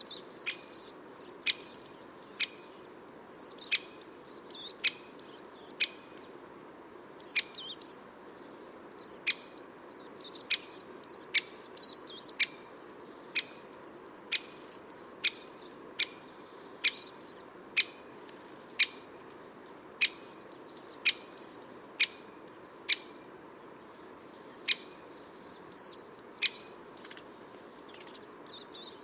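Small garden songbirds chirping and twittering in quick, high-pitched runs, with sharp ticks mixed in about every second and brief lulls.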